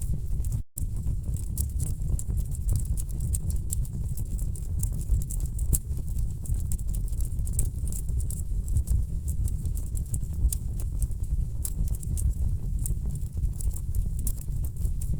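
Wood fire burning in a fireplace: a steady low rumble of flames with dense, irregular crackling and popping of logs. The sound cuts out for an instant less than a second in.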